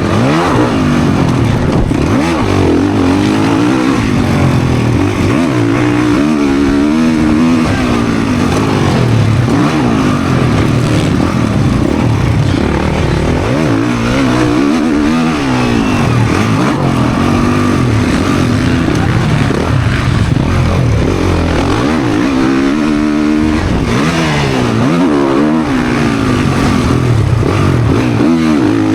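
Motocross dirt bike engine running hard, its pitch climbing and dropping back every second or two as the throttle is opened and closed and the gears change.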